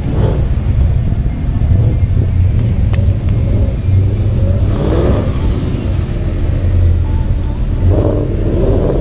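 Several sports car engines running at low speed as the cars roll slowly by, a steady low engine sound that swells briefly about five and eight seconds in.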